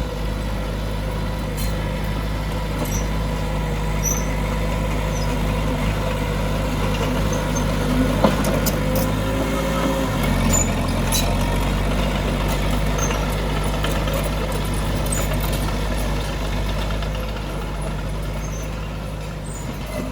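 Heavy diesel earthmoving machinery running steadily. The engine note shifts in pitch about ten seconds in, and there are scattered metallic clinks throughout.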